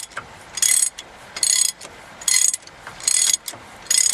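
Hand ratchet wrench clicking in regular strokes, about one burst of clicks every 0.8 s, as nuts are worked off the truck's four-wheel-drive axle.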